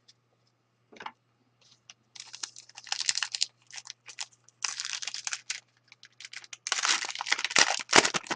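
Foil wrapper of a hockey card pack crinkling and tearing as it is opened by hand, in three crackly bursts a second or so apart.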